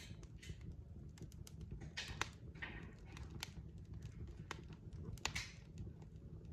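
Burning logs crackling in a fireplace: irregular sharp pops and snaps over a steady low rumble of the fire, with a few short hisses.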